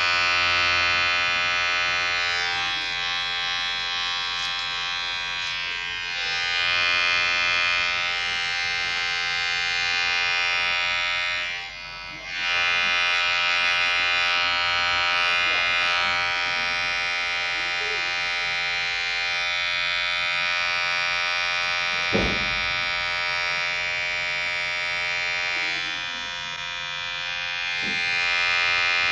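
Electric hair clipper running with a steady buzz. The buzz dips briefly about twelve seconds in, and there is a single short knock about three-quarters of the way through.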